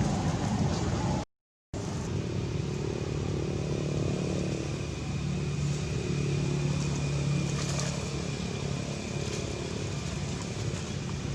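Steady outdoor background noise with a motor vehicle engine running, which drops out completely for about half a second just over a second in.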